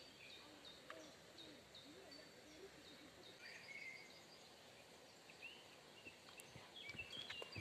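Near silence: faint outdoor ambience with small birds calling in the background, a short repeated chirp about twice a second, then looser, varied chirps, and a few faint clicks near the end.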